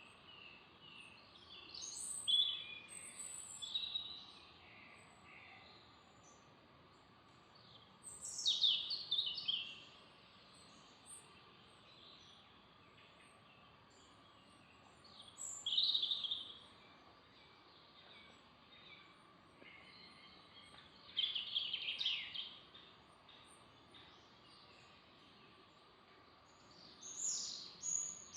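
Songbird singing, short falling phrases repeated about every six seconds, over a faint steady background hiss.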